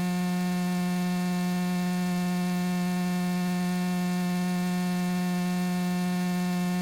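Steady electrical hum on the Cessna 172's cockpit audio feed: one low tone with a ladder of fainter overtones, holding perfectly level between radio transmissions.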